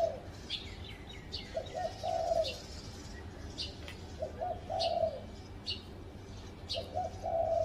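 Spotted dove cooing a three-part phrase, two short notes then a longer one, repeated about every two and a half seconds, three times. Another bird gives short high chirps in between.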